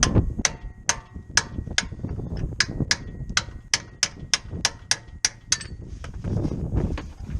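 A series of about eighteen sharp metallic clicks or taps from hand tools at work on the car, over a low handling rumble. They come about half a second apart at first, quicken to about four a second, then stop about five and a half seconds in.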